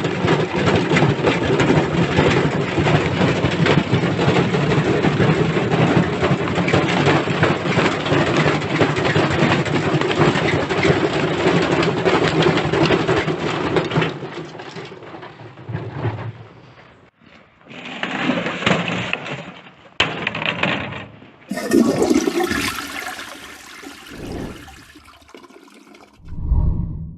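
Washing machine running with a brick inside: a dense wash of sloshing water with the brick knocking against the drum over and over. About fourteen seconds in, the din drops away into shorter separate bursts of sloshing and rumble, ending with a low rumble.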